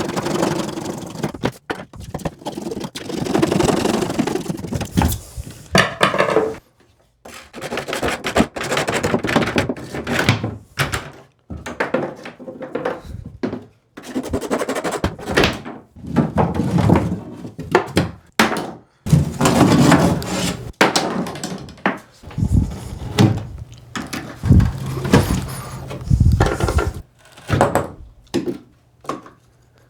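Stop-start cutting and knocking in irregular bursts of a second or two, with brief pauses between: a supply pipe being cut lower down in the floor joist bay.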